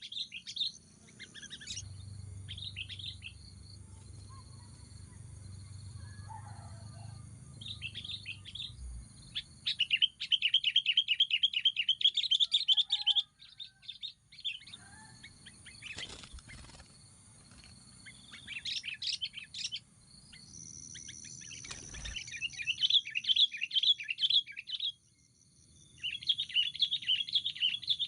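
Sooty-headed bulbuls calling in rapid chattering bursts, repeated again and again with short pauses between. There are two sharp clicks, about two-thirds of the way through and again a few seconds later.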